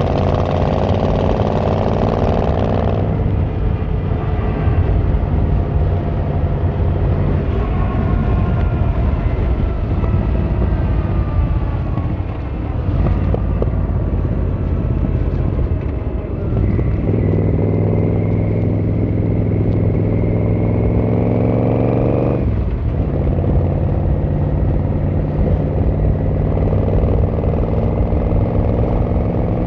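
Yamaha XVZ1300 Royal Star's V4 engine and exhaust under way. The pitch sinks slowly as the bike slows through the first dozen seconds, then climbs over about five seconds of acceleration, drops suddenly at a gear change and settles to a steady cruise.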